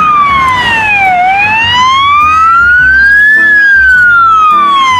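Toy ambulance's electronic siren wailing loudly, its pitch sliding slowly down, then up, then down again, about two seconds each way.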